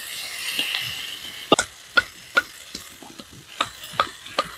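Onion and capsicum sizzling in a metal wok as a metal spatula stirs them, followed from about a second and a half in by a run of sharp clicks about two or three a second.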